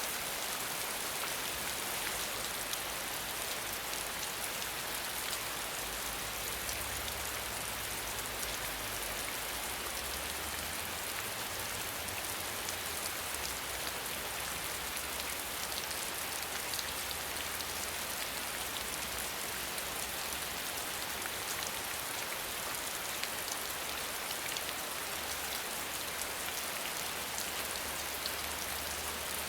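Steady rain falling, a dense even hiss with many individual drops pattering, over a low rumble that swells and fades.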